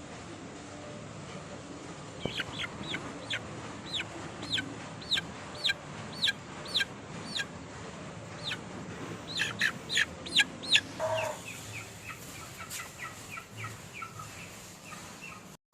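Aseel chickens calling: a string of short, high, falling peeps about two a second, loudest near the tenth second. A brief lower cluck comes about eleven seconds in, followed by softer, lower peeps.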